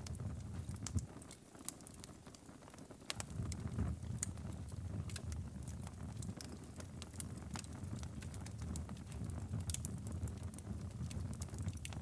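Wood fire crackling, with scattered sharp pops and clicks over a steady low rumble that drops away for about two seconds near the start.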